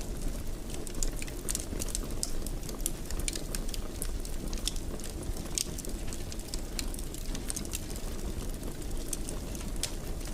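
Wood fire in a fireplace crackling, with many small irregular pops and snaps over a steady low rumble of burning.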